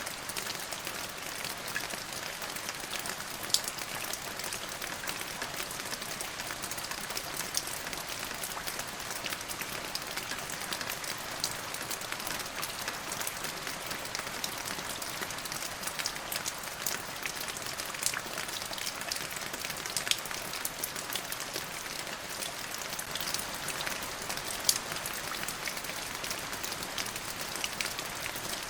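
Steady rain falling, an even hiss with many sharp individual drop hits scattered through it.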